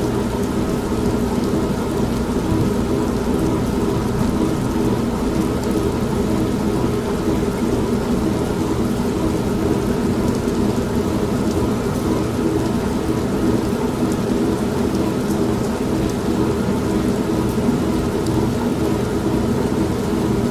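Old manual washing machine running with a steady motor hum, mixed with continuous rain and a low thunder rumble underneath.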